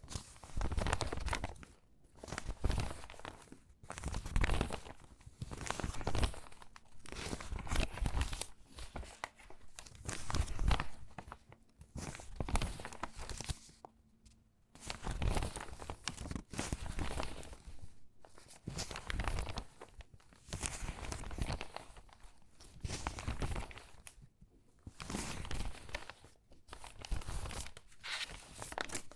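Stiff, crinkly water-damaged magazine pages being handled and shuffled by hand, in irregular bursts of crackling and rustling with short pauses between.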